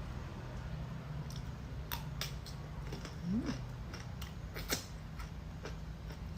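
Eating a seafood bucket by hand: scattered sharp clicks and cracks of shells and utensils over a low steady hum, with one short rising squeak about three seconds in.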